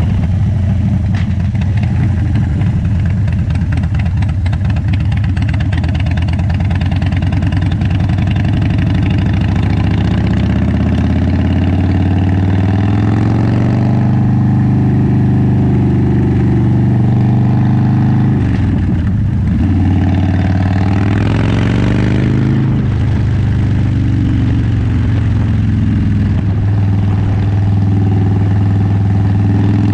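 Motorcycle engine and exhaust running under way. The engine note climbs from about a third of the way in, drops sharply just past halfway, climbs again briefly, then holds steady.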